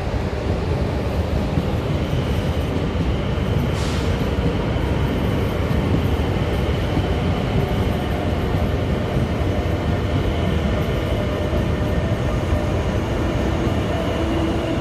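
EuroCity passenger train running into the station: a steady rumble of wheels and running gear on the track, with a faint high steady tone from about two seconds in and a brief hiss about four seconds in.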